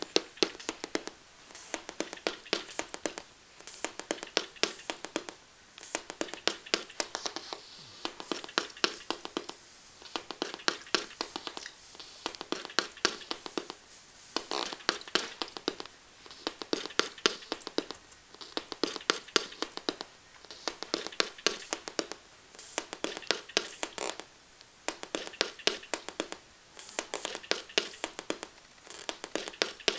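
Small LED-lit loudspeakers giving out rapid clicking and crackling, in bursts that repeat about every two seconds.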